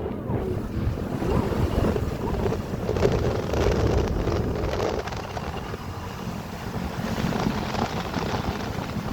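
Wind buffeting the microphone, a rough low rumble that eases a little about halfway through.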